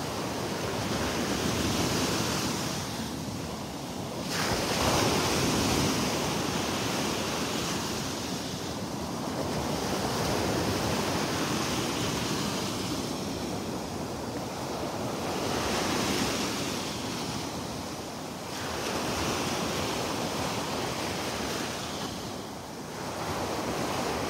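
Small Gulf of Mexico waves washing up on a sandy beach, the surf swelling and easing every few seconds, with wind buffeting the microphone.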